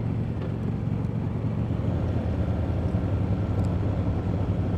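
Harley-Davidson V-twin motorcycle engine running steadily on the road, a low even hum with a rushing noise over it.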